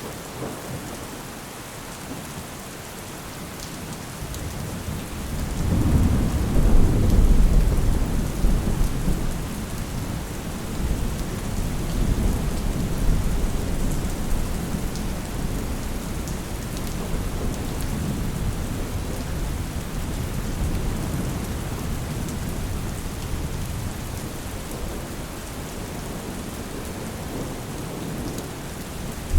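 Steady rain with a long roll of thunder that builds about five seconds in, peaks a couple of seconds later and rumbles on, slowly fading away.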